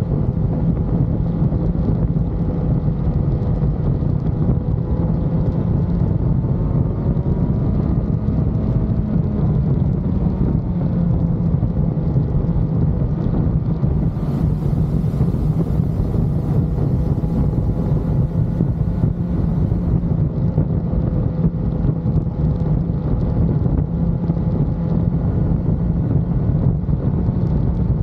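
Motorcycle running steadily at road speed, its engine note wavering slightly, mixed with heavy wind buffeting on the microphone.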